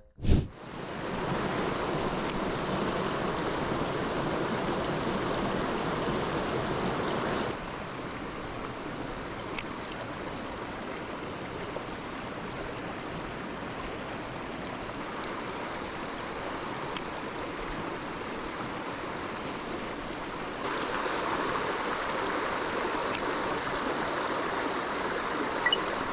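Mountain stream flowing over rocks: a steady rush of water that drops a little in level about seven seconds in and rises again a few seconds before the end.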